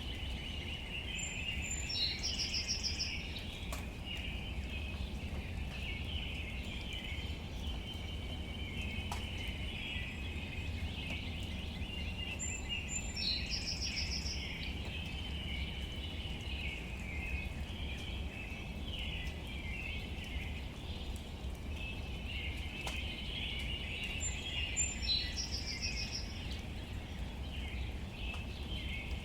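Outdoor ambience: a bird sings the same short, high, quickly trilled phrase three times, about every eleven seconds, over a steady high-pitched chatter and a low rumble.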